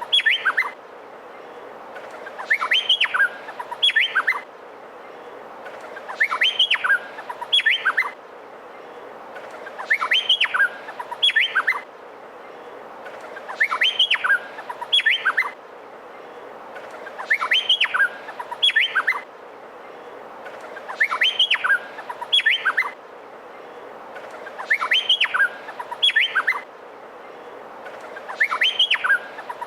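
Male Meliphaga honeyeater singing: a short phrase of a few sharp, rising whistled notes, repeated about every four seconds at a steady pace, over a faint constant hiss.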